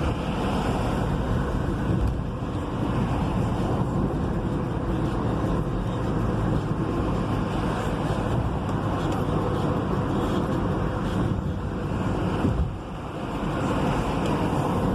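Steady engine and road noise inside a moving vehicle's cab, dipping briefly near the end.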